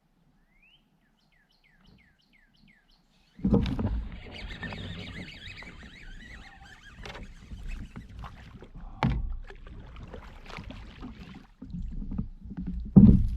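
Near silence with a faint run of short, quick bird chirps, then about three seconds in a sudden loud rough rush of noise with knocks and clicks: a kayak being handled and moving on the water.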